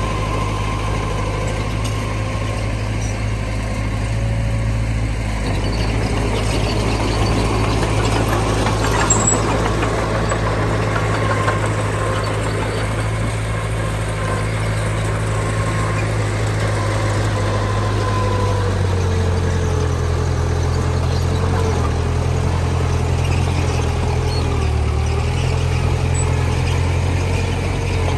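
Diesel engine of heavy earthmoving machinery running steadily, its engine note shifting about two-thirds of the way through.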